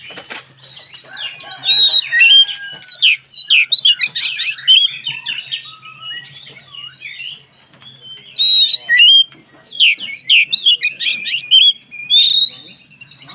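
Oriental magpie-robin (kacer) singing a fast, varied string of loud whistles and chirps. The song comes in two bouts with a quieter gap of a few seconds between them.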